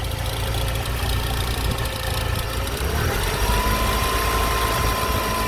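Car engine idling cold, a steady low rumble; about three seconds in, a higher whine rises and holds. The engine still has the abnormal noise that the owner, unsure, wonders may come from the alternator.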